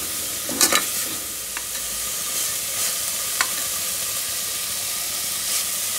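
Minced meat and spices sizzling in oil in a pressure cooker as they are stirred, a steady frying hiss. There are a few sharp knocks of the stirring spoon against the pot in the first second and two lighter taps later.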